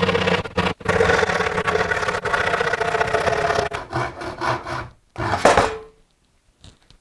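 Saw cutting through a pallet-wood board: a long continuous cut, then a few short strokes and a final burst that stops about six seconds in.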